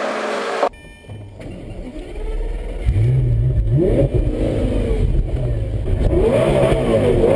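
Lamborghini Aventador's V12 engine with Akrapovič exhausts, revving. A sharp break just under a second in is followed by a low rumble. The engine then comes in loud at about three seconds, blips up quickly about a second later, and is revved repeatedly from about six seconds.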